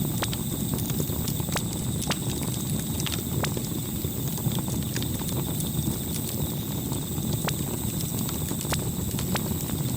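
Campfire burning with a steady low crackle and irregular sharp pops of burning wood, about one or two a second.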